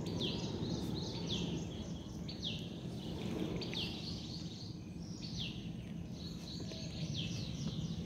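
A bird calling repeatedly, short high notes that fall in pitch, about one every second, over a steady low background noise.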